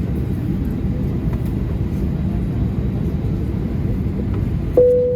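Steady low rumble of an Airbus A320neo cabin at the gate. Near the end a single chime rings out and holds, the cabin signal for the seatbelt sign being switched off.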